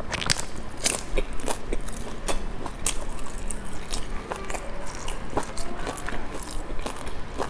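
Close-miked biting and chewing of crispy fried food, with irregular sharp crackling crunches several times a second.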